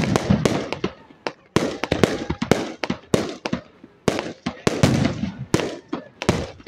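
Aerial fireworks bursting overhead, a rapid string of sharp bangs and pops, several a second.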